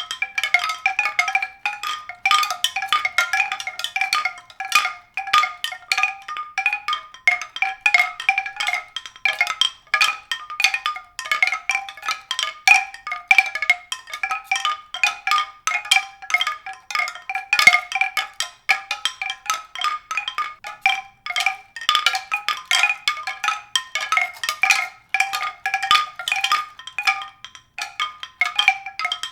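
Tuned percussion: a rapid, continuous stream of short struck ringing notes at a few recurring pitches, several strikes a second.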